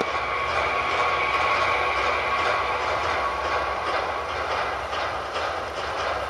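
Fireworks crackling: a dense, continuous rattle of many small pops in quick succession, with a faint steady tone underneath.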